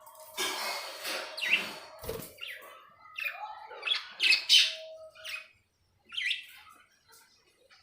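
Budgerigars chirping and chattering in short, high calls, loudest about four and a half seconds in, with a knock about two seconds in.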